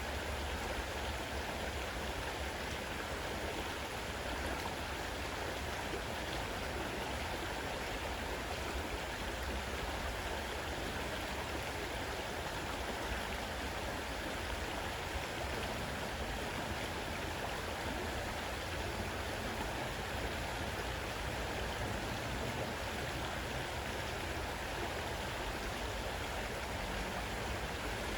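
A fast-running river: a steady, unbroken rush of flowing water.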